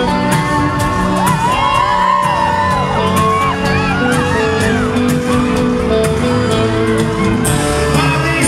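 Live sertanejo band music in a large hall, with the audience whooping and screaming over it, most strongly in the first few seconds.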